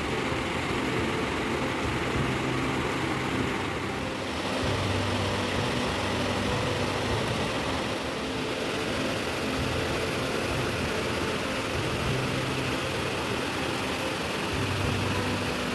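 Steady rain hiss, with low droning tones underneath that shift in pitch every few seconds.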